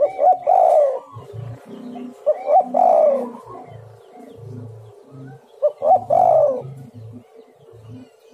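Spotted doves cooing: three loud, falling coo phrases about three seconds apart, with softer, lower coo notes between them.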